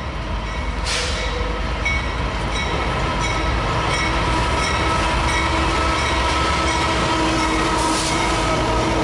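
Diesel-electric locomotives hauling a double-stack container train pass close by. Their engines run with a steady low rumble and a few steady tones, and the sound grows louder over the first few seconds as the lead units come past.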